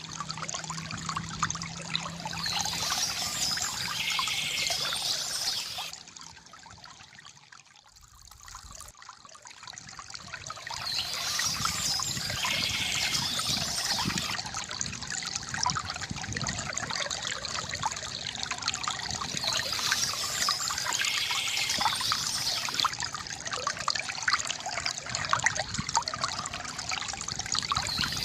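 Water trickling and pouring from a bamboo fountain spout, a steady gurgling splash that drops away for a few seconds about a quarter of the way through, then comes back.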